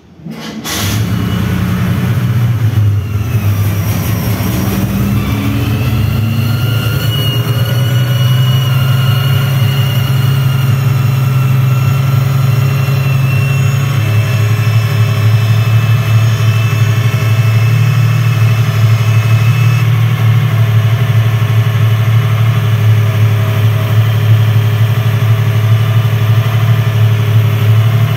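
Chevrolet Opala engine catching about a second in, then idling steadily, run to test for a strange noise that the owner suspects comes from either the timing gear or a vacuum leak at the intake manifold.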